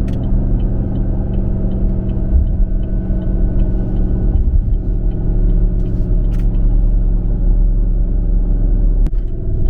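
Steady low rumble of road and engine noise in a moving car, with a constant engine hum.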